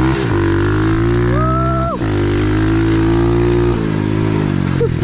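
A 125cc pit bike engine running steadily, with a short higher whine over it about a second and a half in.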